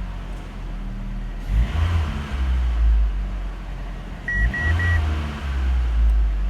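Fiat Stilo 1.6 16-valve petrol four-cylinder engine (182B6000) running at idle and revved briefly twice. Three short beeps sound with the second rev.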